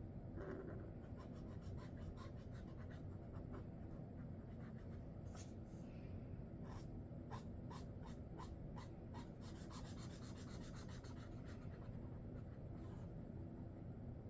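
Sharpie Creative Marker tip drawing: a run of short, quick scratchy strokes and dabs, thickening into a fast flurry of strokes about ten seconds in.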